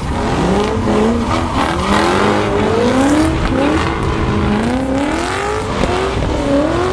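V8 drift cars sliding: engines revving in repeated rising pulls, about one a second, over tyre squeal.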